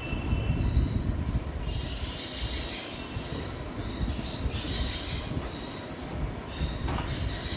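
Scratchy writing strokes in short spurts, each lasting about a second, over a steady low rumble.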